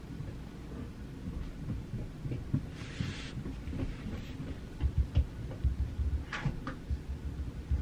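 Desk study sounds over a steady low room rumble: a short paper or pencil rustle about three seconds in, soft low knocks on the desk, and a brief scratch near the end.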